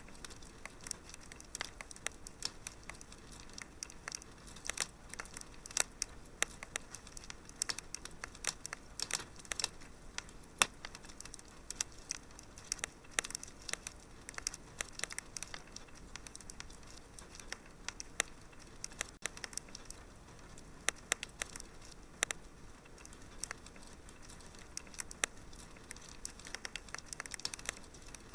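Wood fire crackling in a fireplace: irregular sharp crackles, several a second, over a faint steady hiss.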